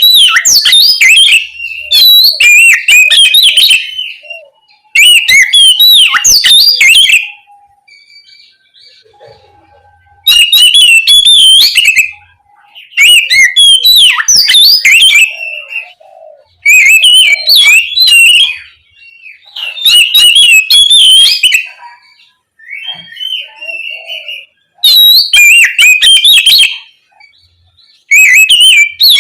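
Oriental magpie-robin (kacer) singing loudly in full song: phrases of about two seconds of rapid, varied whistles and chattering notes, broken by short pauses, about seven phrases in all.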